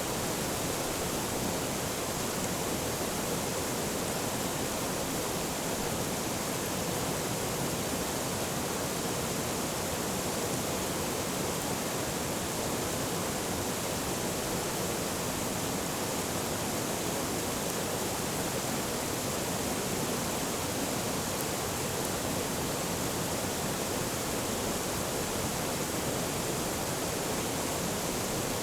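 Forest stream flowing: a steady, even rush of running water that does not change.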